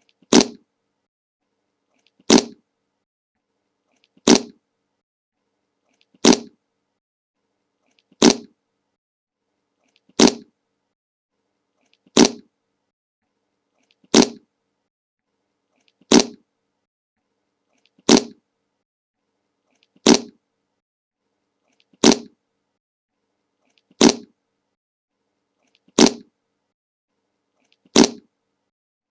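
A short fart sound effect played on a loop: the same brief fart, about fifteen times, one every two seconds, with silence in between.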